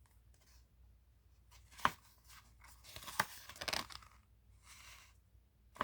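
Faint paper handling as a picture book's pages are turned: two sharp page snaps about a second and a half apart, each followed by soft rustling.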